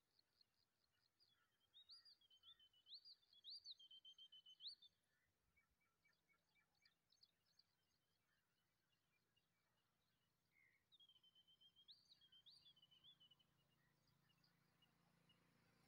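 Faint bird song in two phrases of quick, high, rising-and-falling notes, one about two seconds in and another about eleven seconds in, with scattered faint chirps between.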